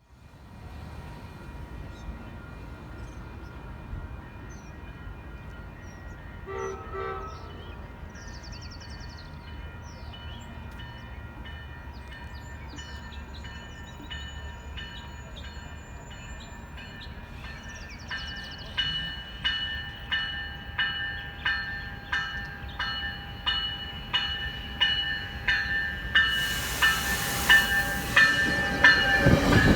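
Railroad crossing bells ringing at a steady beat of about one and a half strikes a second, growing louder through the last third. A short train horn sounds about seven seconds in. An approaching train's rushing noise builds over the last few seconds.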